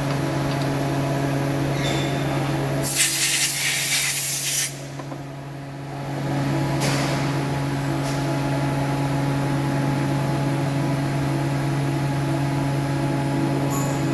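Steady workshop machine hum, with a loud burst of hissing air about three seconds in that lasts under two seconds; the hum drops briefly after it and then comes back.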